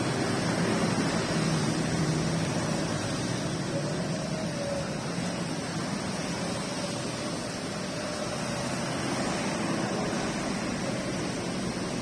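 Steady heavy rain, a dense even hiss, with a faint low hum underneath.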